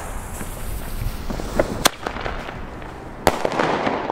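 Small fireworks going off: a lit fuse sparking, then sharp bangs about two and three seconds in, with a faint pop just before the first.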